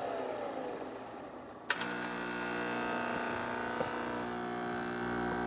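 Nespresso VertuoNext coffee machine running through its start-up cycle: a motor whine falls in pitch and fades, then about a second and a half in the machine starts with a click into a steady mechanical hum.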